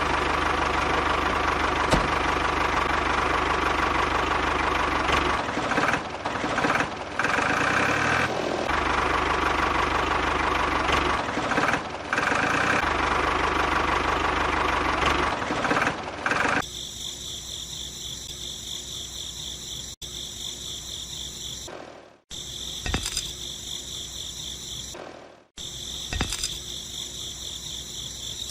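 Small motor running steadily with a dense mechanical rattle. About two thirds of the way through it changes to a thinner, high-pitched whine, which cuts out briefly twice.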